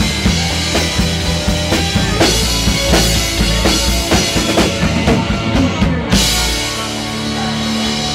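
Live rock band playing an instrumental passage with a busy drum kit and bass. About six seconds in, everything comes down on one big hit, and a chord is held ringing out.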